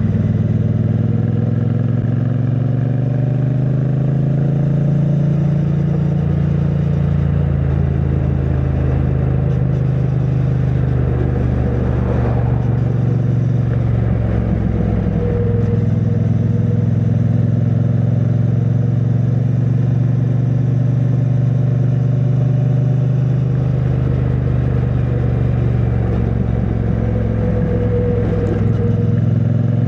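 2022 Triumph Bonneville T100's parallel-twin engine running through its stock exhaust while riding, heard from the rider's backpack. The engine note holds steady with small pitch shifts, and dips and picks up again about twelve seconds in.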